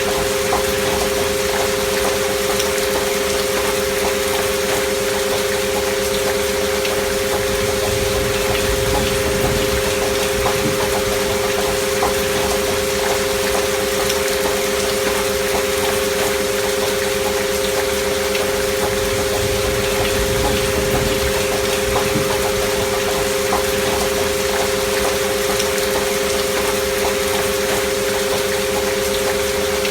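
Steady rain sound with two held pure tones near 500 Hz laid over it, a binaural-beat frequency track (528 Hz with alpha-wave beating).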